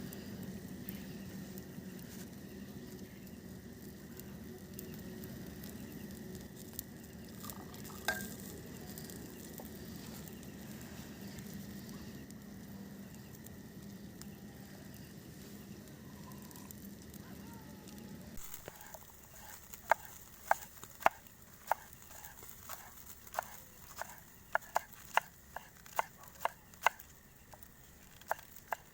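Food sizzling in a pan over a campfire, a steady frying hiss. About 18 seconds in, the sound changes abruptly to a run of sharp knocks, roughly two a second.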